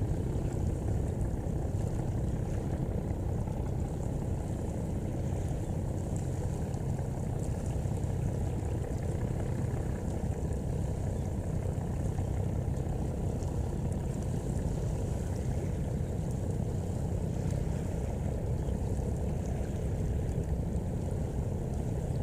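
A boat's diesel engine running steadily, a low drone that holds even throughout.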